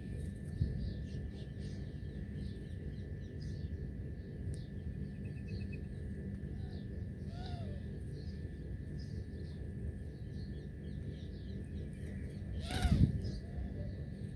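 Wild birds chirping, many short high calls scattered throughout over a steady background hiss and a thin steady whine. One louder sound stands out near the end.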